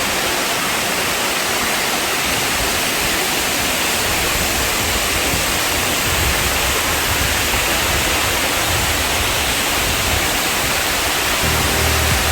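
Waterfall rushing: a steady, even roar of falling water. Low music tones come in near the end.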